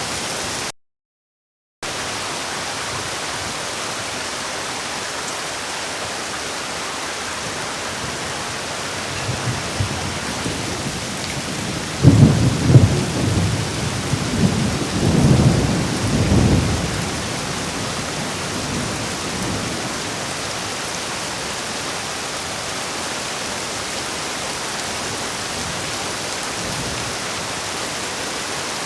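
Heavy rain falling with a steady hiss, cut by about a second of dead silence just after the start. A faint low rumble of thunder comes around ten seconds in, then a loud thunderclap at about twelve seconds that rolls on for some five seconds before the rain alone carries on.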